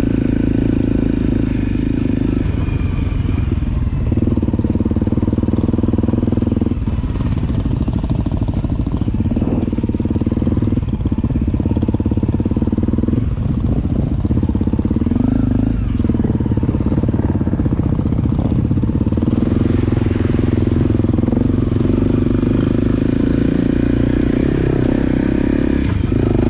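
Motorcycle engine running steadily while under way. The engine note dips briefly about seven times.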